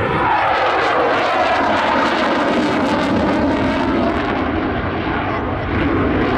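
Eurofighter Typhoon's twin Eurojet EJ200 turbofans during a display pass, a loud steady jet noise whose pitch falls in the first second as the jet goes by.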